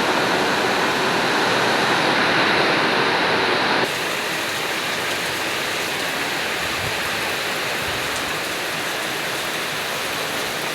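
Heavy rain pouring in a storm, a loud, steady rushing of water. About four seconds in the sound changes abruptly, becoming slightly quieter and hissier.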